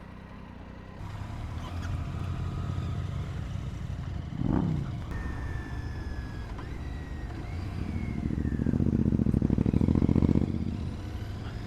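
Motorcycle engine running close by, with a quick rev that falls away about four and a half seconds in, then held at higher revs for about two seconds near the end before dropping back.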